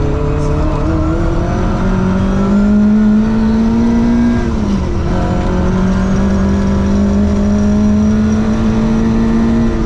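Ford Escort Mexico rally car's engine at full throttle, heard from inside the cabin: the revs climb, drop sharply with an upshift about halfway through, then climb again under steady road noise from the gravel.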